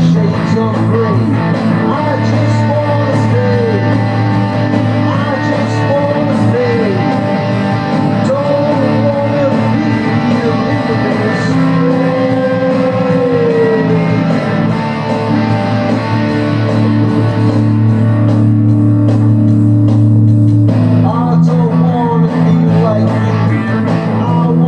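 Rock music with electric guitar and bass guitar; a voice sings or wails in sliding pitches. The high end thins out briefly a little before the end, then the full band comes back.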